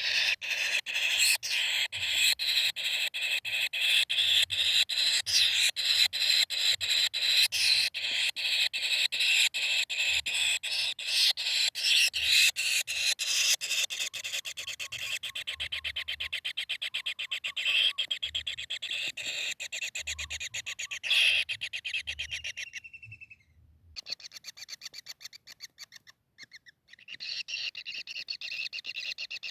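Kingfisher calling: a long, rapid series of sharp, shrill notes that quickens into a fast, even chatter and breaks off briefly about three-quarters of the way through.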